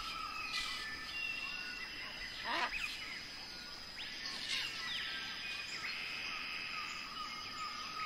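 Birds calling over a steady high-pitched drone, with several short calls; the loudest is a falling cry about two and a half seconds in.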